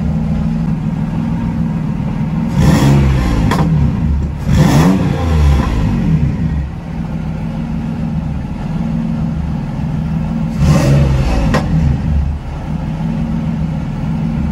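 Turbocharged VQ35 V6 of a Nissan 350Z idling steadily and blipped three times, the revs rising and falling each time. It runs with an open dump and an open wastegate exiting through the hood.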